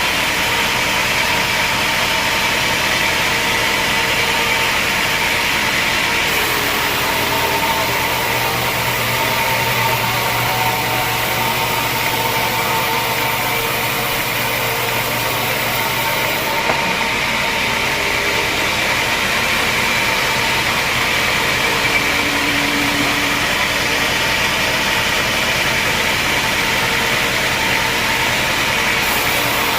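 Sawmill machinery running steadily: a constant loud mechanical drone with a few held tones and no breaks.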